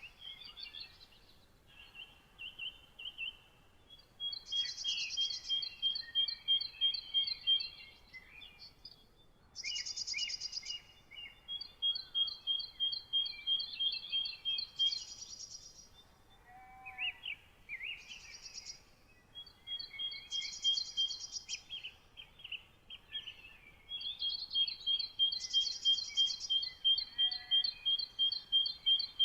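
Several songbirds singing: one keeps repeating a phrase of rapid, evenly spaced high notes every few seconds, with shorter chirps and whistles from other birds between the phrases.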